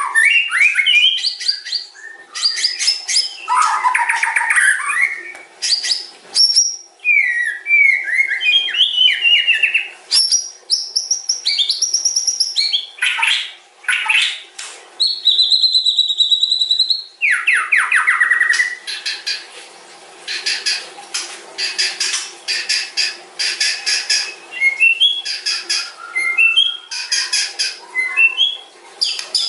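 White-rumped shama singing a long, varied song: loud whistled phrases and pitch glides mixed with long runs of rapid rattling notes. A faint steady hum lies beneath.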